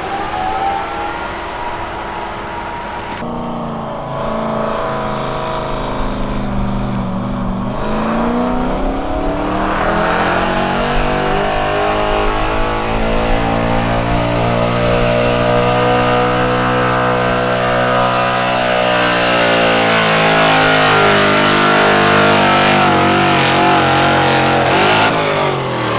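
Gas engine of a street-class pickup truck at full throttle, pulling a weight-transfer sled. The pitch dips briefly, climbs and holds high, then sags slowly toward the end, and the sound cuts off abruptly.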